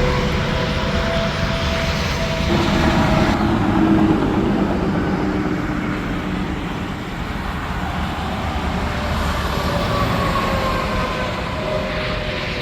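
Heavy interstate traffic: semi-trucks passing at highway speed, with tyre roar and engine drone whose pitch drops as each truck goes by.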